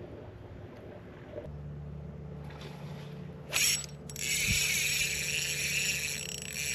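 A fishing reel being cranked: a sustained whirring, ratcheting mechanism starts about four seconds in, just after a short sharp whoosh. A steady low hum runs underneath.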